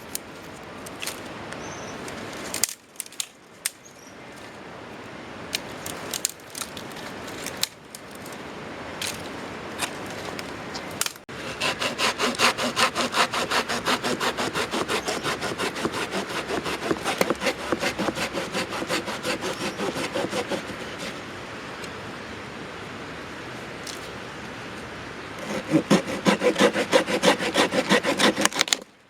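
Hand saw cutting wood in rapid back-and-forth strokes. There are two spells of sawing: a long one starting about a third of the way in, and a shorter, louder one near the end. Scattered knocks and clicks come before the sawing.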